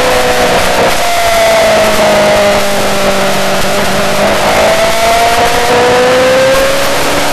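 Yamaha R6 inline-four sportbike engine heard on board at track speed under heavy wind rush. Its note falls gradually as the bike slows, then climbs steadily from about halfway as it accelerates again.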